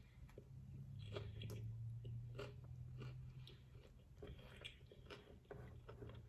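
Chewing and biting into a taco, with soft crunches and wet mouth sounds.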